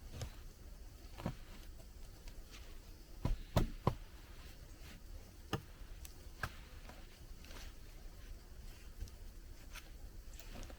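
Scattered light clicks and knocks, with three louder knocks close together about three and a half seconds in.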